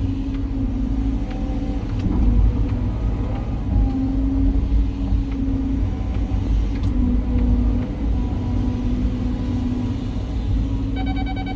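Cat 323 hydraulic excavator's diesel engine running under load while digging, its pitch shifting up and down with the hydraulics, with occasional sharp knocks. A rapid pulsing beep starts near the end.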